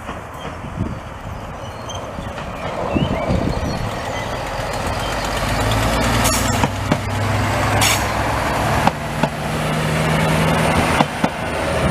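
Siemens Desiro Classic diesel railcar passing close by, its engine drone growing louder as it draws level, with several sharp clicks in the second half as the wheels cross rail joints.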